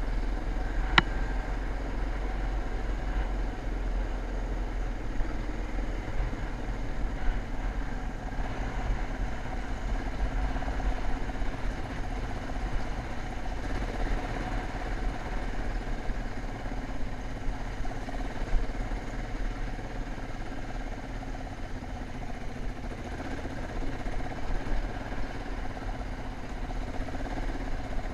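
Motocross dirt bike engine running steadily, with a heavy low rumble and a sharp click about a second in.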